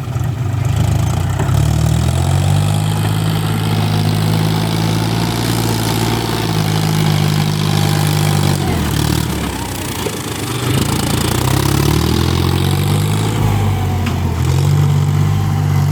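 Tractor engine running steadily as it pulls a plough, its note rising and falling a few times, with a dip about nine seconds in before it climbs again.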